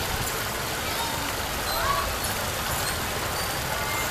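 Passenger train coaches rolling away on the rails: a steady rushing rumble of wheels on track, with a few faint short squeals about two seconds in.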